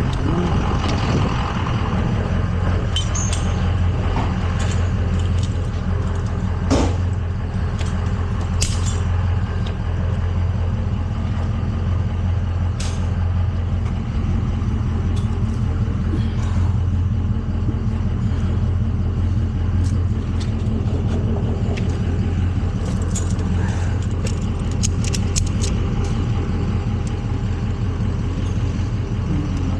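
Tow truck's engine idling steadily, with scattered sharp metallic clicks and clanks over it.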